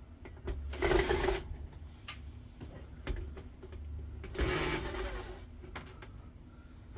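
Cordless drill-driver whirring in two short runs of about a second each, backing screws out of an induction hob's metal frame.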